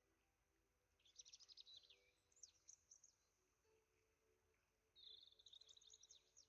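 Faint birdsong: a burst of quick high chirps and trills about a second in, a few scattered chirps after it, and another trilling burst near the end.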